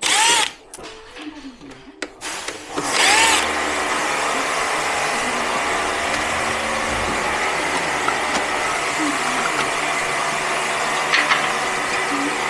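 A power tool's electric motor gives two short loud bursts, then runs steadily with a hum. A few faint clicks come near the end.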